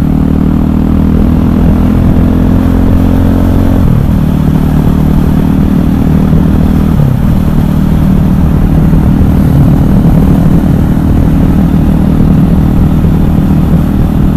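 KTM 500 EXC supermoto's single-cylinder four-stroke engine running under way, its note shifting in pitch about four seconds in and again about seven seconds in.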